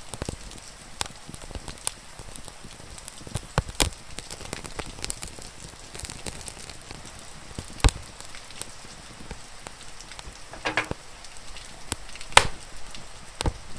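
Wood fire crackling, with irregular sharp pops, the loudest about twelve seconds in, over a steady hiss of falling rain.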